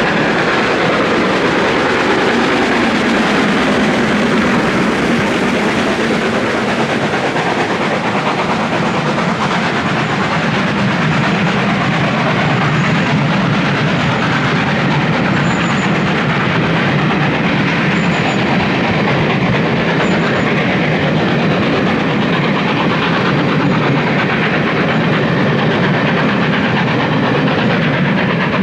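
LMS steam locomotive working hard up a steep gradient. Its exhaust beats come quickly and evenly over a continuous loud rush of steam and running gear, with no let-up throughout.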